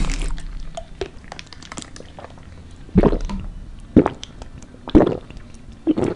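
Close-miked wet mouth sounds, four short ones about a second apart from about three seconds in, typical of gulping or smacking after eating spicy food.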